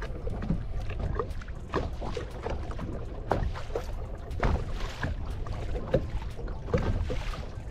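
Water splashing and sloshing against a kayak on the sea, with irregular short knocks and splashes over a steady low rumble of wind on the microphone.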